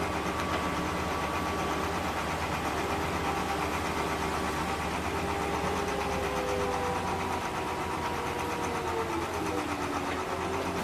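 A heavy-equipment engine runs steadily with a low rumble, and a faint whine over it drifts up and down in pitch.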